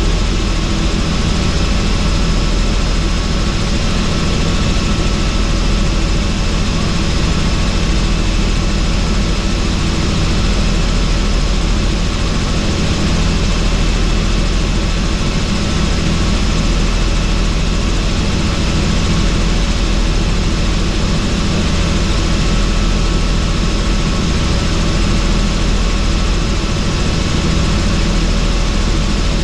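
Helicopter in steady flight, heard on board with the doors off: a constant, loud drone of rotor and engine with thin steady whining tones above it, unchanging throughout.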